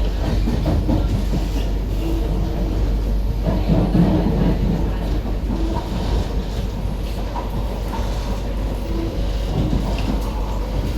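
Interior running noise of an SMRT C151B metro train between stations: a steady rumble of wheels on rail and traction equipment, swelling briefly about four seconds in.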